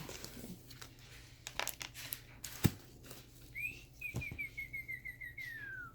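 Cockatoo whistling: a short rising note, then a warbling run of quick notes that slowly slide down, ending in a falling glide. It comes after a few light taps and one sharper knock.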